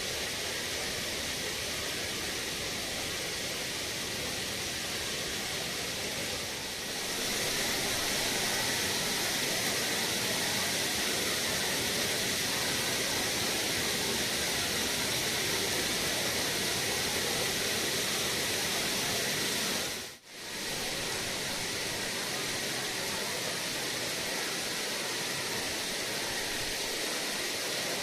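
Waterfall rushing, a steady hiss-like roar of falling water. It grows louder and brighter about seven seconds in, and cuts out for a moment about twenty seconds in before resuming.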